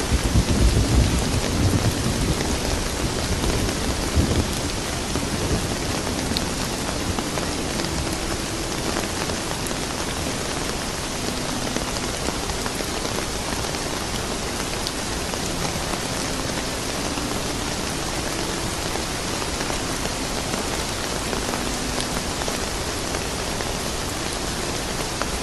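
Steady rain falling, with a low rumble of thunder that fades out over the first few seconds. A couple of faint crackles from a fireplace come through the rain.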